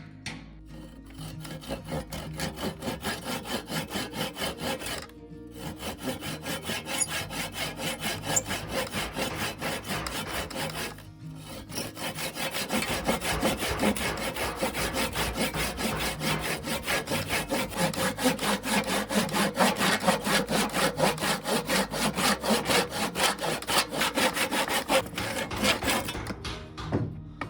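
Hand saw cutting through wood in steady back-and-forth strokes, about two a second. It pauses briefly twice and stops near the end.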